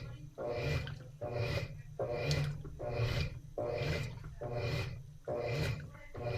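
Top-loading washing machine with a central agitator agitating during the wash: the motor hum and the water swishing back and forth in a steady rhythm, one stroke a little under a second apart.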